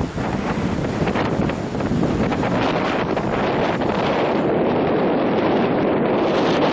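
Wind buffeting the microphone: a loud, steady rushing noise that grows fuller about two seconds in.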